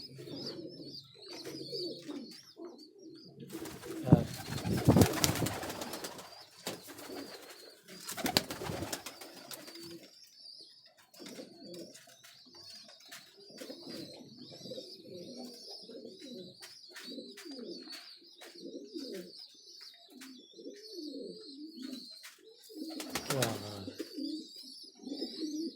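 Pigeons cooing again and again in a loft, over a steady thin high squeaking. Loud rustling scuffles come about four and eight seconds in, and again near the end.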